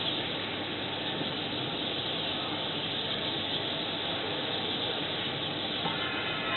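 Steady, even background hiss of outdoor ambient noise with no fireworks bursts; faint steady tones join in near the end.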